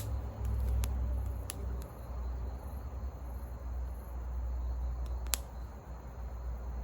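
Campfire wood crackling, with a few sharp pops over a steady low rumble. Faint high insect chirping runs underneath.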